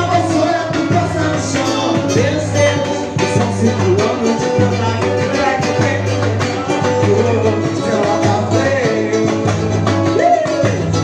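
Latin music played by a small band: a steady bass line with percussion under a wavering melody line.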